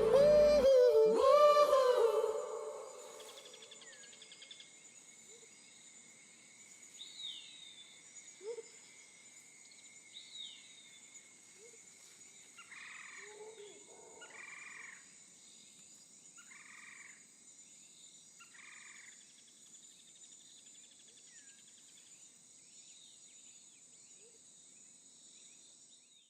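A pop song with a singer ends about two seconds in. Faint outdoor ambience follows: scattered bird chirps, a run of four short calls a second or two apart near the middle, and a steady thin high hum.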